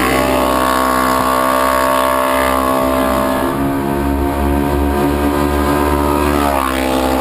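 Polaris RZR XP 900's twin-cylinder engine running at high, steady revs through a Vance & Hines DragonFire dual exhaust, with a brief dip in pitch near the end.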